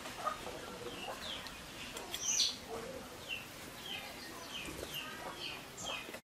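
Small birds chirping, a short falling chirp repeated about twice a second, with one louder call about two and a half seconds in.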